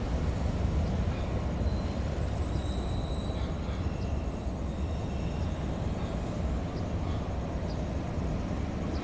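Passenger train coaches rolling over curved track: a steady low rumble of wheels on rails, easing slightly as the train moves away.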